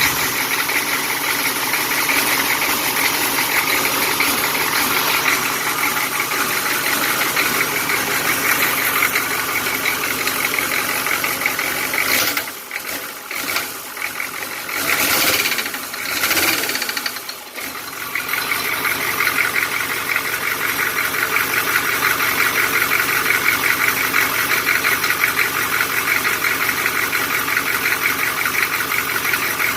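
A GM 6.2 L diesel V8 idles with a loud, steady diesel knock. The owner traces the knock to weak or stuck injectors firing early and causing pre-detonation. About halfway through, the sound drops and turns uneven for several seconds, then settles back into the same knocking idle.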